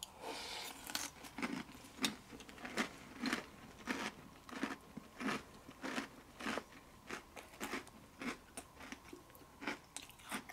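Close-up chewing of a mouthful of Hostess Donettes powdered mini-donut cereal in milk: a steady run of crunches, about three every two seconds.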